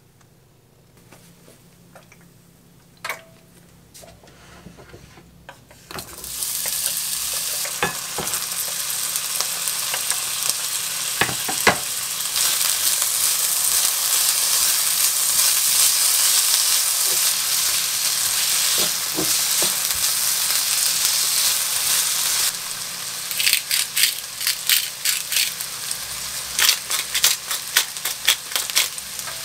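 Julienned potato and carrot sizzling in oil in a frying pan, starting about six seconds in after a few quiet seconds with light taps, and stirred with a wooden spatula that knocks now and then against the pan. Near the end a quick run of sharp clicks as black pepper is ground over the pan.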